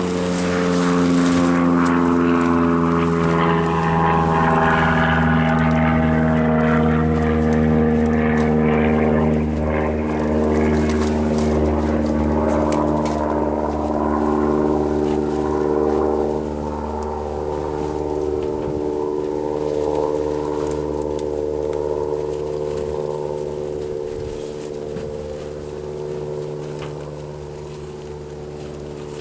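An engine drones steadily with a pitched hum, loudest in the first half and slowly fading toward the end.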